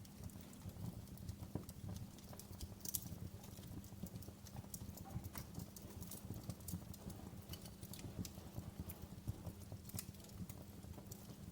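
Wood fire crackling in a fireplace: a steady low rumble of burning with frequent small pops and snaps.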